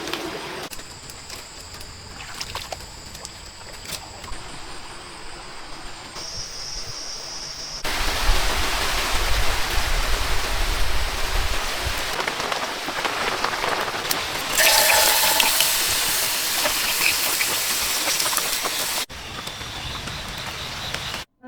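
Rain and running water in several abruptly cut stretches. First a lighter hiss with steady high whines, then loud rain over a low rumble from about a third of the way in, then a louder, brighter downpour hiss that cuts off sharply near the end.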